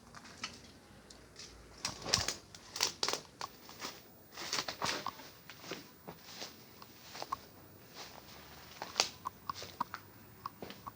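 Footsteps rustling and crunching through dry brush and litter, in irregular bursts.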